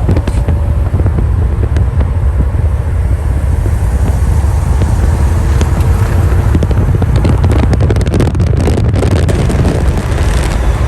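Car engine running with a steady low rumble, with wind blowing across the microphone.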